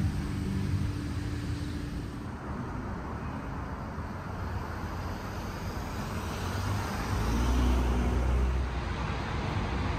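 Street traffic noise, with one vehicle passing close and loudest about seven to eight and a half seconds in.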